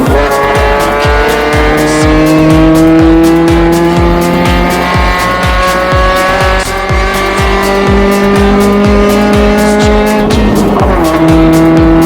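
Toyota 86/Subaru BRZ exhaust through an aftermarket Dynamic Eagle muffler, the note climbing slowly under steady acceleration and dropping sharply about eleven seconds in, as at an upshift. Music with a steady thumping beat plays along.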